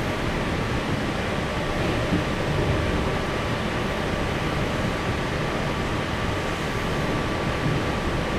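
Steady running noise of a passenger train moving along the track, heard from inside the carriage, with a faint steady high tone over the rumble.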